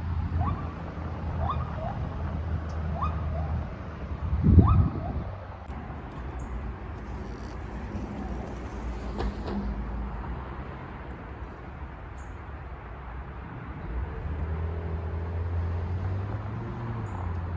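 A string of short, rising animal calls, repeated about ten times in the first five seconds, over a steady low rumble of freeway traffic. A loud bump comes about four and a half seconds in.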